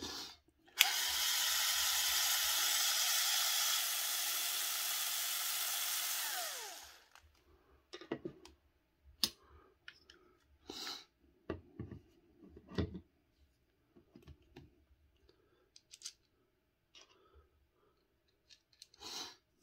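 A small handheld power tool's motor runs steadily for about six seconds, then winds down with a falling pitch. After it, a scatter of light clicks and knocks from small parts and tools being handled.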